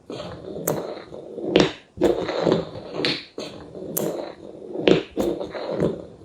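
A series of irregular knocks and taps, roughly one or two a second.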